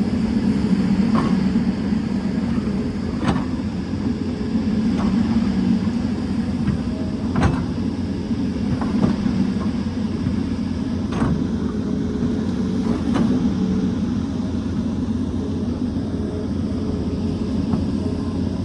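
Hydraulic excavator's diesel engine running steadily under working load. Over it come about seven sharp knocks, irregularly spaced, as the bucket strikes rock.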